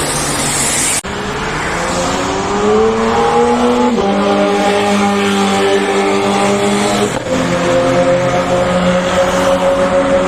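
Sportbike inline-four engine pulling hard under wide-open throttle. Its pitch climbs, drops sharply at an upshift about four seconds in, shifts again around seven seconds, and climbs slowly after that. The first second is a different noisy engine run that cuts off abruptly.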